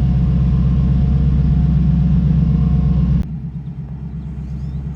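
Twin-turbo Camaro engine running steadily at idle with the transmission in drive, a loud low rumble heard from inside the car. About three seconds in the sound cuts off abruptly to the same engine heard quieter and more muffled from farther away.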